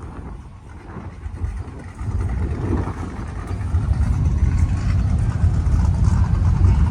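Car engine rumbling close by, growing steadily louder from about two seconds in.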